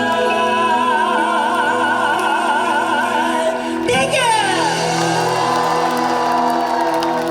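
Live rock band with a male singer who holds a long high note with wide vibrato over sustained chords. About four seconds in, his voice slides steeply down into the next sung word.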